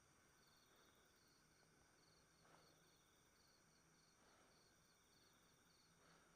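Near silence with faint crickets chirping in an even rhythm, about two chirps a second.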